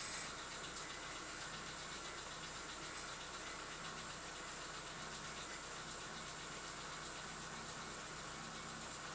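Chevrolet Lacetti engine idling steadily just after a cold start, with the hydraulic valve lifters knocking: a cold-start lifter tap that dies away once oil pressure builds.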